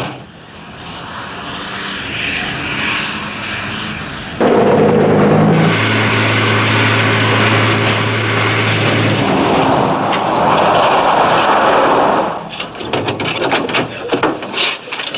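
A motor vehicle's engine running as it drives, with a steady low hum and road noise; it grows much louder about four and a half seconds in and falls back about twelve seconds in.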